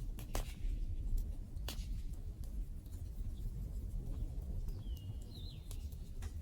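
Wood campfire burning, with scattered sharp crackles and pops over a steady low rumble. A bird gives a short whistled call about five seconds in.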